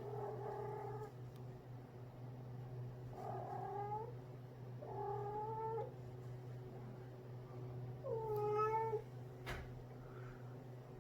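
A cat giving four drawn-out, strange-sounding yowls of about a second each while play-fighting a stuffed fish toy, with a sharp click near the end over a steady low hum.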